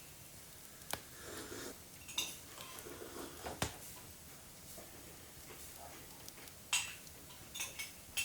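Cutlery clinking and knocking against dishes during a meal: a handful of separate clinks spread a second or more apart.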